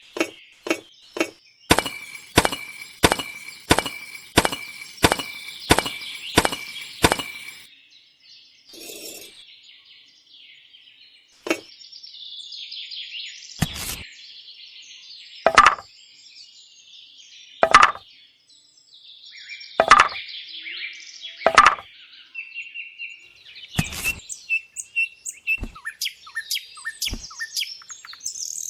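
Birds chirping throughout, over a run of about nine sharp, evenly spaced taps, about one and a half a second. Later come four heavier knocks about two seconds apart, then a few lighter taps near the end.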